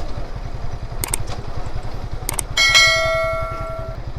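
A motorcycle engine runs steadily. Over it come a couple of light clicks, then a small bell is struck twice about two and a half seconds in and rings out for over a second.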